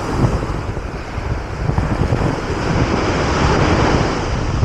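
Ocean surf breaking and washing up the sand, swelling to its loudest about three and a half seconds in, with wind buffeting the microphone.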